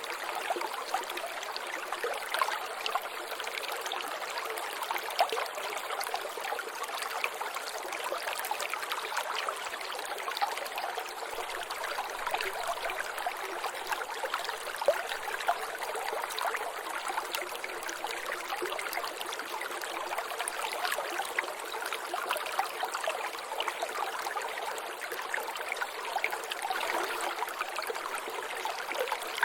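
Water trickling and dripping steadily, with many small splashes and gurgles.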